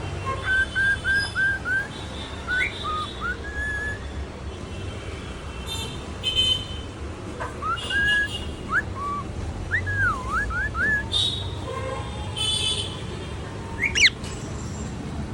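A cockatiel whistling a tune in phrases: a quick run of five short rising notes, more whistled notes, a longer phrase with a swooping dip, and a sharp upward whistle near the end. Higher, shorter chirps come in between.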